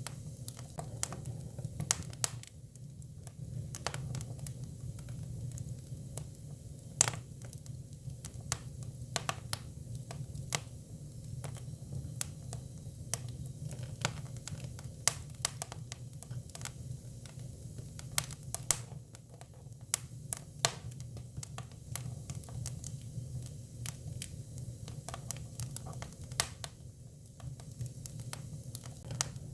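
Hinoki cypress firewood burning, with irregular sharp crackles and pops, several a second, over a low steady hum.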